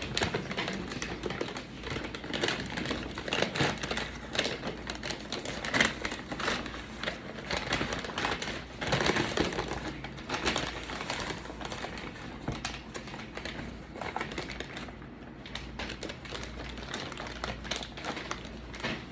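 Close-up eating sounds: irregular crunching and crinkling as snacks are chewed and their packaging handled.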